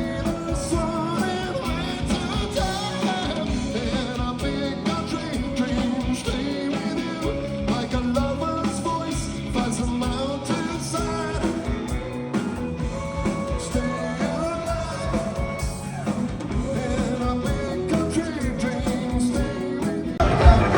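Live rock band playing with a lead vocalist singing, amplified through a concert PA. The music gets much louder just before the end.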